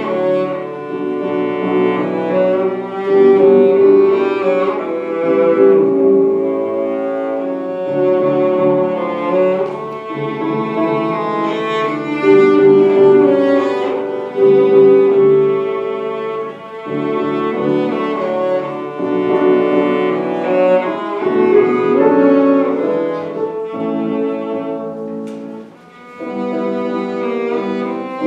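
Classical music played live on a bowed string instrument in the cello-to-violin range, a melody of long held notes. It breaks off briefly about 25 seconds in, then resumes.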